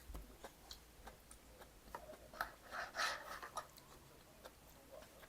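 Faint eating sounds: scattered light clicks and chewing, with a short louder noisy burst about three seconds in.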